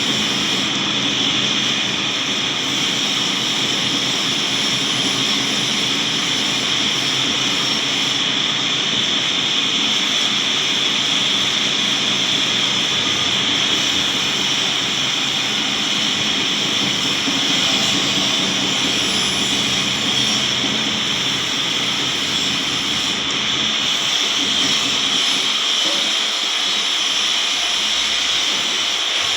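A loud, steady hiss that runs on without a break, strongest in its upper range.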